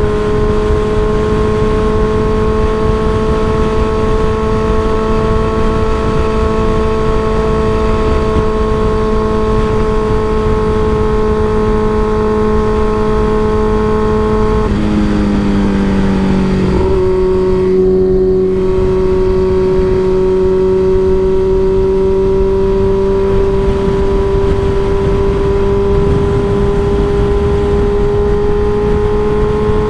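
Motorcycle with an aftermarket M4 exhaust running at a steady cruise, its exhaust note holding one pitch. About halfway through the note dips and wavers for a couple of seconds, then settles slightly lower and slowly climbs again. Wind noise rushes over the microphone throughout.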